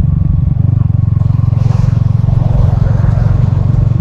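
Yamaha XSR155's single-cylinder four-stroke engine and exhaust running steadily under way, its firing pulses evenly spaced, with a brief hiss about a second and a half in.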